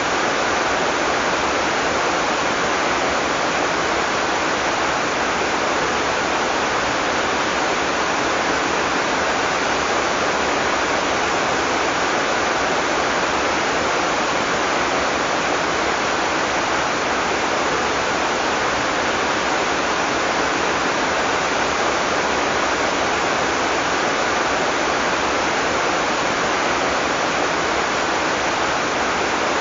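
Heavy tropical rain pouring steadily, a dense even hiss with no thunder.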